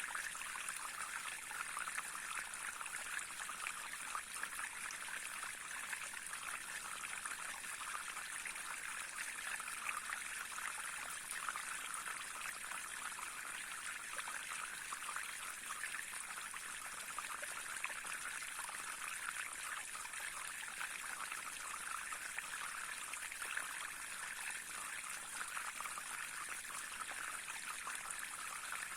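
A small stream running steadily over stones, a continuous babbling and trickling of water.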